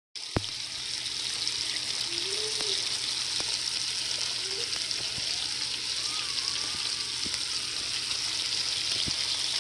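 Food frying in hot oil in a pan: a steady high sizzle with scattered small pops, and a sharp click just after the start.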